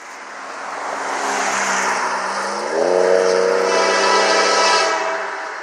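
Norfolk Southern diesel locomotives approaching, their rush of noise swelling over the first second or so. About three seconds in, the horn sounds a held chord that bends up slightly as it starts and lasts about two and a half seconds.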